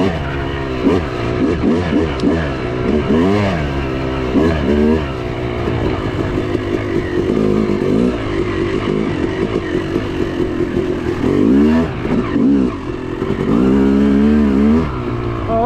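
Yamaha YZ250 two-stroke dirt bike engine being ridden hard, its note repeatedly rising and falling as the throttle is opened and closed.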